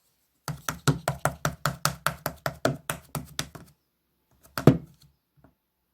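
Slime being pressed and poked by hand, making quick popping clicks at about five a second, then a short pause and two or three louder pops near the end.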